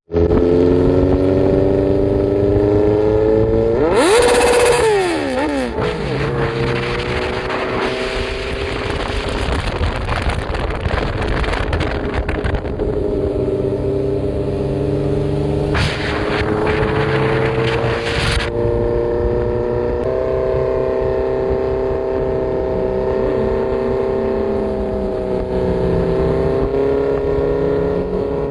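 Sport motorcycle engine running hard at high revs, its pitch holding fairly steady with small rises and falls. About four seconds in it swoops up and down sharply as it revs, and loud rushing noise comes in twice.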